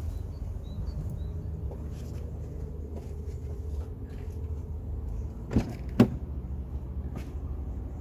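Hyundai Terracan's 2.5 D4BH diesel idling steadily, with the engine knock the owner puts down to a leaking fourth injector. Two sharp clanks about five and a half and six seconds in.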